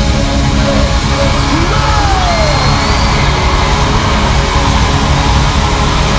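Live rock band playing a loud instrumental passage with electric guitars, bass and drums.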